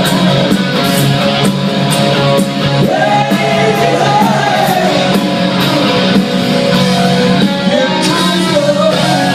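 A rock band playing live, with a lead singer's wavering sung lines over loud, sustained band music.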